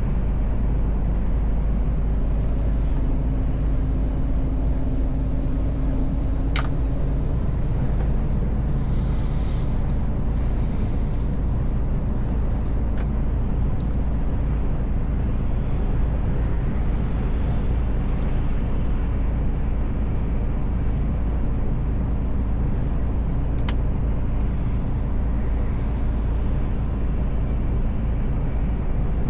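Mercedes Actros L truck heard from inside the cab while driving: a steady low diesel drone and road rumble. A brief airy hiss comes about a third of the way in, and there are two single sharp clicks.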